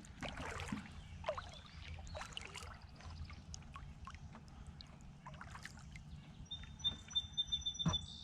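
Faint water sounds around a kayak on a creek: scattered light drips and small splashes. Near the end a thin, high trill joins in.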